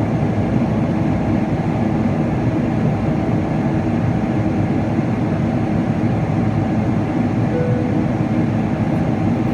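Steady cabin roar inside a Boeing 777-300ER: the noise of its GE90 engines and of the airflow, with a low rumble underneath.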